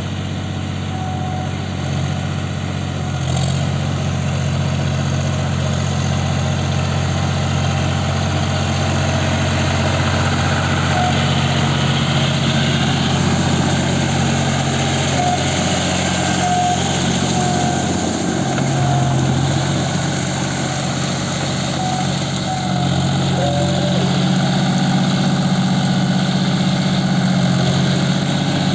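John Deere 5050D tractor's diesel engine running steadily at a low, even speed, with small shifts in its drone every few seconds. A few faint short high chirps come through in the middle.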